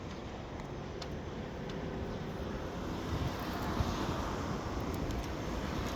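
Steady rushing outdoor background noise that swells a little about halfway through.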